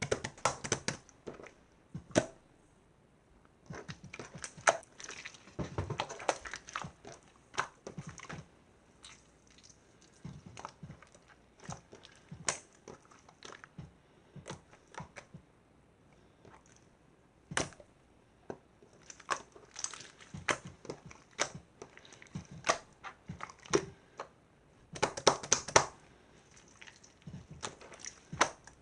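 Slime being squeezed, pressed and stretched by hand, giving irregular clusters of sticky crackles, clicks and small pops with short pauses between.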